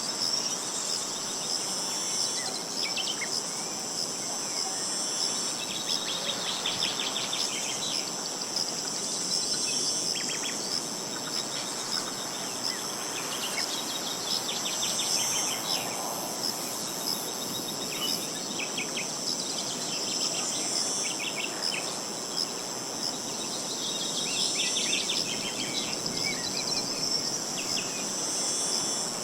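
A steady, high-pitched insect chorus, with a bird's short trilled phrases recurring every few seconds over a soft hiss of wind.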